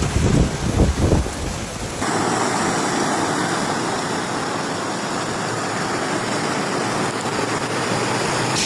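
Torrential rain pouring down in a steady hiss, with wind buffeting the microphone for the first two seconds; then the sound cuts abruptly to an even, louder rush of rain with no wind rumble.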